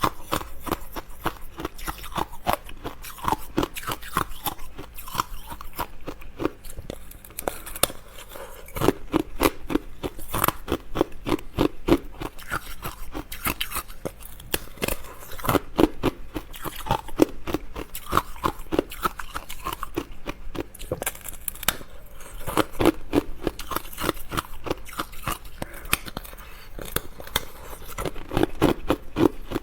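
Close-miked chewing of crisp, flaky baked snacks: a dense run of crunches and crackles with wet mouth sounds between bites.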